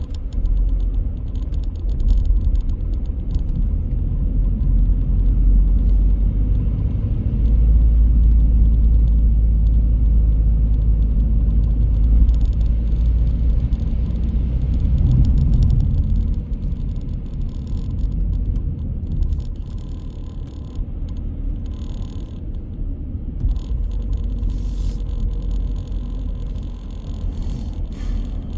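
Car driving through city streets: a steady low rumble of engine and tyres on the road, heaviest from about 7 to 16 seconds in, then easing off.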